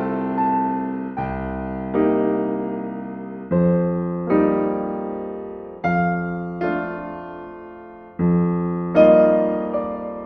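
Slow, calm solo piano music: sustained chords struck one after another, each left to ring and fade before the next.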